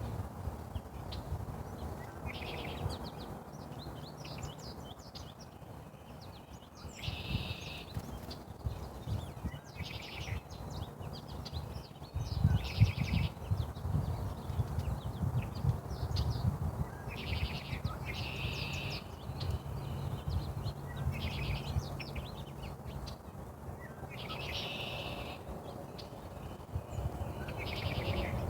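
Small birds calling in short chirping phrases that recur every couple of seconds, over a steady low rumble.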